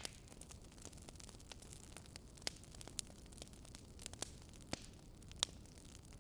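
Wood fire crackling: irregular small pops and snaps over a low steady hiss, with a few louder snaps scattered through.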